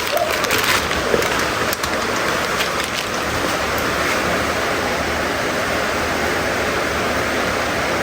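Heavy rain pouring down in a windstorm, a steady rushing hiss.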